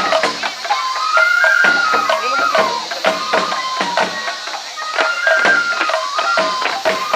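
Japanese festival hayashi music for a lion dance: a high bamboo flute playing a stepping melody of held notes over frequent sharp drum strikes.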